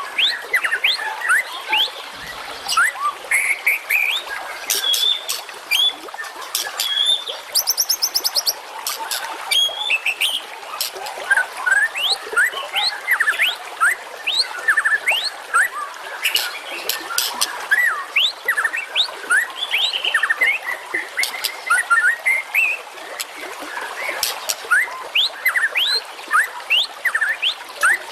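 Recorded songbird song, a dense run of quick chirps and short whistled sweeps, with a fast high trill about eight seconds in.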